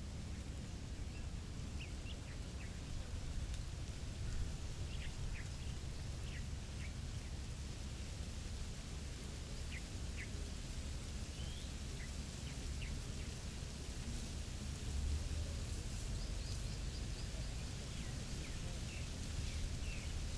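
Birds calling in short, high chirps and whistles scattered throughout, over steady outdoor noise with a strong low rumble.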